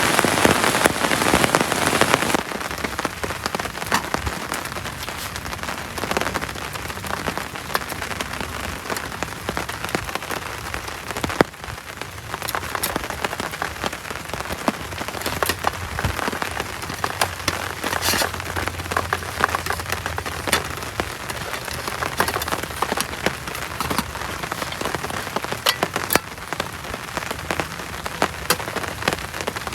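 Heavy tropical rain falling steadily, with many individual drops ticking sharply; a little louder for the first couple of seconds, then easing slightly.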